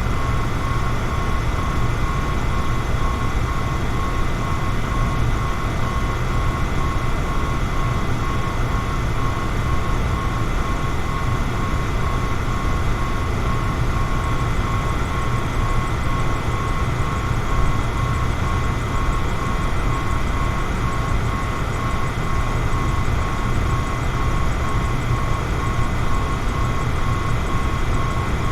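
Fan running steadily: an even rush of moving air with a deep hum underneath and a faint, constant whine on top.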